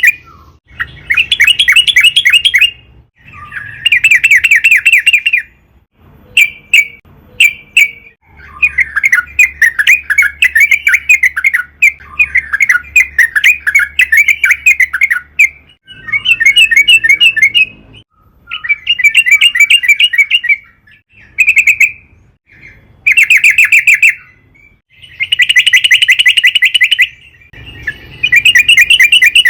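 Sooty-headed bulbul (trucukan) singing: loud bursts of rapid, bubbly chattering notes about one to two seconds long, separated by short pauses, with one unbroken run of about seven seconds near the middle.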